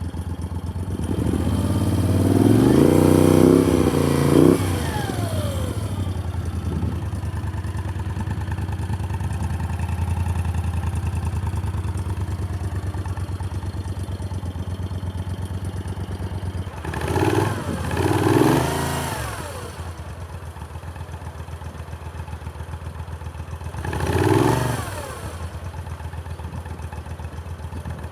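1983 Moto Guzzi V35C's V-twin idling through SITO silencers and revved with the throttle. One long rev rises and falls about two to five seconds in, then two quick blips come around seventeen to nineteen seconds and one more near twenty-four seconds, each settling back to idle.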